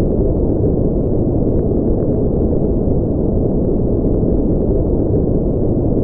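Steady, unchanging electronically generated noise of the kind sold as white noise, here deep and muffled with no high hiss.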